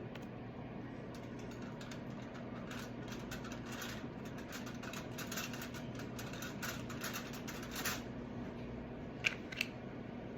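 Soft, rapid taps and rustles of cookie molds and dough being handled, with two sharper clicks near the end, over a steady low hum.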